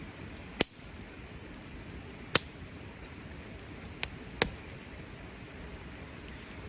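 Wood fire crackling: four sharp pops over a steady low hiss.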